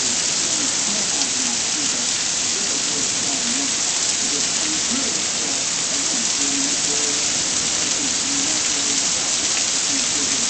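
Heavy rain pouring down steadily, a dense even hiss of drops hitting the ground and surfaces.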